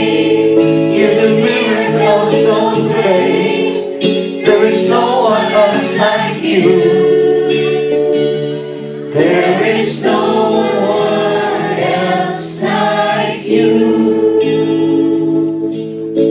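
A choir singing a gospel worship song over sustained instrumental backing.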